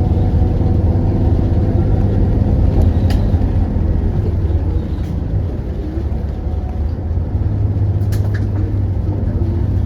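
Hyundai Universe Elegance CNG coach engine running with a steady low drone, easing slightly about halfway through and picking back up near the end, with a few light clicks.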